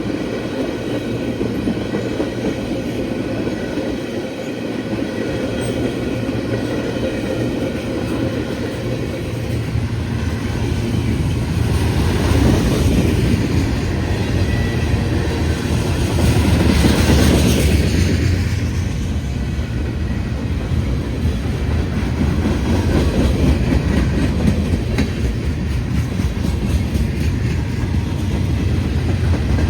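Freight train cars rolling past on the rails, a steady low rumble that grows louder partway through, with brief swells as cars go by. The cars are rolling smoothly.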